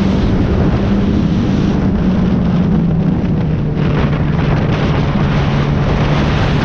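Sport motorcycle engine running hard on track, its note steady and then dropping a little about two and a half seconds in, under heavy wind rush on the microphone.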